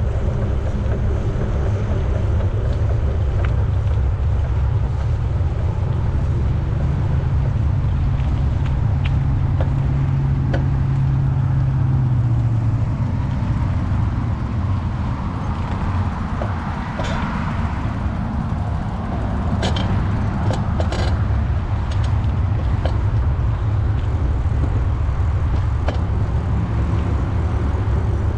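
Wind rushing over the microphone of a moving bicycle, a steady low rumble, with a handful of sharp clicks or rattles from the bike a little past the middle.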